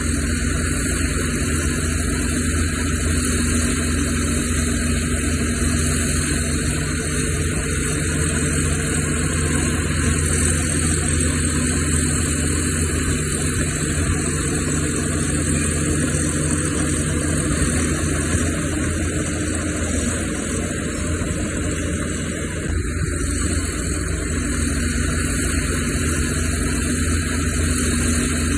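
Diesel engine of heavy earthmoving machinery running steadily. The level dips briefly a little over twenty seconds in, then the engine hum comes back up.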